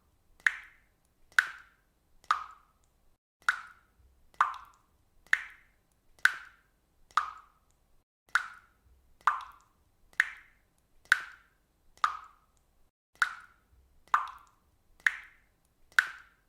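Water dripping steadily, one drop about every second. Each drop is a short, pitched drip that dies away quickly.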